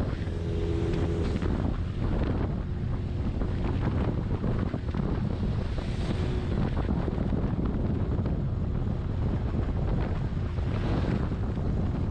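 Strong wind buffeting the microphone on a moving motorcycle, with the engine's steady low rumble and road noise underneath; the wind swells in gusts about halfway through and again near the end.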